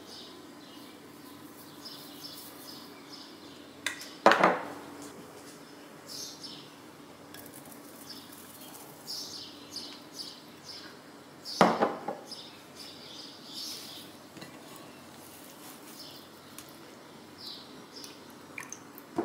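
Dishware clinking as small bowls of dried herbs and diced olives are tipped into a glass mixing bowl of dough: two sharp knocks with a short ring, about four seconds in and again near the middle, with lighter taps and rustles between.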